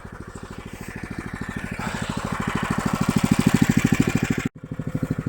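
Engine of a motorised snow tow (motor-dog) running under way through snow, getting steadily louder over the first few seconds. The sound cuts out completely for a moment about four and a half seconds in, then carries on.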